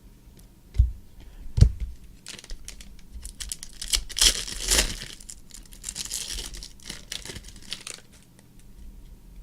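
A foil trading-card pack being torn open and its wrapper crinkled, a rustling stretch of several seconds that is loudest in the middle. Two dull thumps come before it, in the first two seconds.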